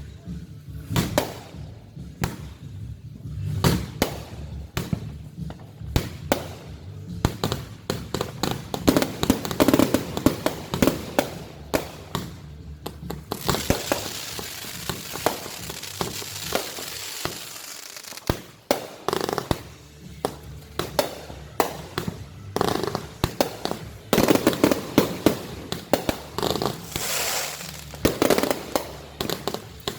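Fireworks display: a rapid, irregular run of bangs and pops, with a stretch of dense crackling hiss about halfway through.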